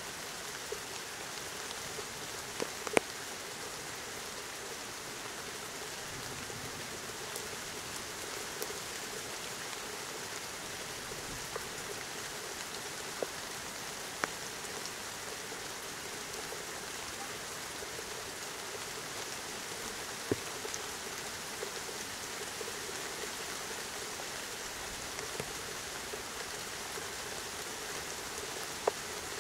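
Steady rain falling from a thunderstorm, an even hiss, with now and then a single sharp drop striking close by.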